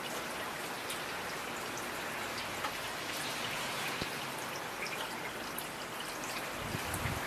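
Steady rainfall, an even hiss with individual drops ticking now and then.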